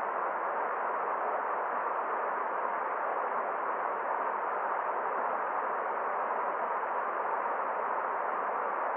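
Forest stream water rushing in a steady, even hiss, with no single splashes or changes standing out.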